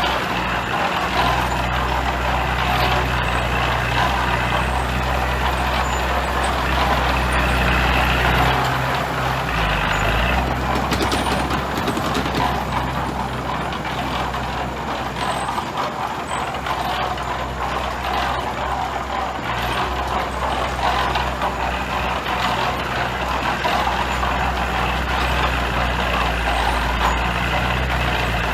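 Heavy diesel earthmoving machinery working, with steady engine running that changes pitch and load a few times and scattered clanks and rattles over it.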